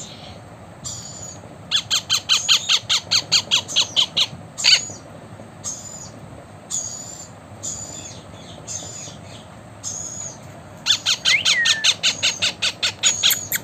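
Blue Indian ringneck parrot squawking in two fast runs of sharp, loud calls, about five a second, with short high chirps in between.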